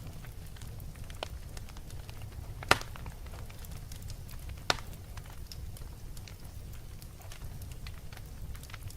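Fire crackling over a steady low rumble, with scattered small crackles and two louder sharp pops, a little under 3 seconds in and near 5 seconds in.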